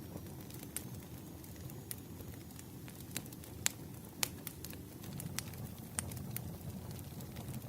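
Burning firewood crackling: irregular sharp pops and snaps over a low, steady rumble of flames, with two louder pops a little past the middle.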